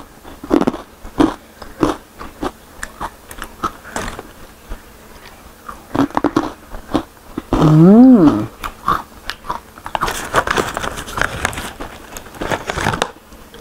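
Close-miked crunching and chewing of crispy fried fruit and vegetable chips, with a loud hummed "mmm" of enjoyment about eight seconds in.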